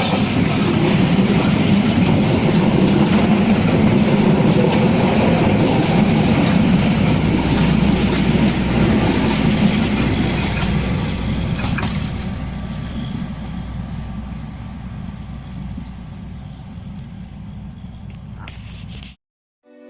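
A train passing close by, a steady rumble of wheels on rail that is loudest for the first ten seconds or so, then fades as it moves away and cuts off suddenly near the end.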